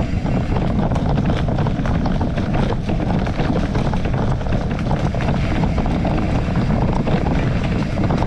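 Steady wind buffeting on the microphone of a moving rider's camera, with a dense run of small rattles and knocks throughout, as from riding over rough ground.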